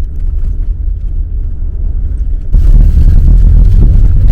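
Old Soviet-era sedan driving over a rough, muddy dirt track, heard from inside: a heavy low rumble of engine and road noise that jumps sharply louder about two and a half seconds in.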